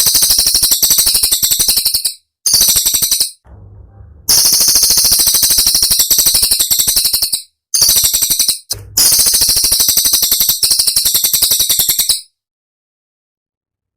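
Cililin song bird singing sharp, very high, fast trills of rapidly repeated notes in five phrases with short breaks between them, stopping about twelve seconds in. These are the tight, piercing 'tembakan' (shot) phrases used to train other songbirds.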